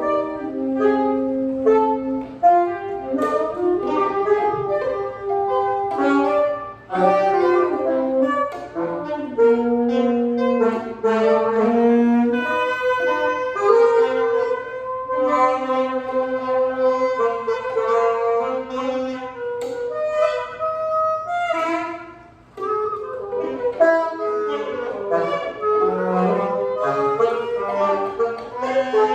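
Tenor and alto saxophones improvising freely together, several lines overlapping in held notes and short runs, with a brief drop about three-quarters of the way through.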